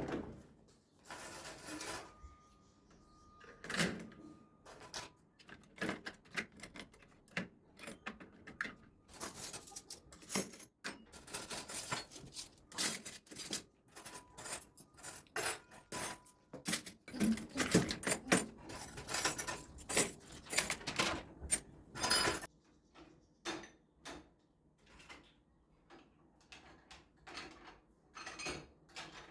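Small household objects being handled, a run of quick clicks and clatters that grows busier through the middle and drops off suddenly to a few faint ticks.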